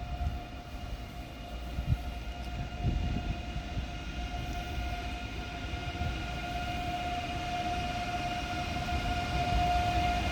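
Electric train's steady whine: several held tones over a low rumble, slowly growing louder.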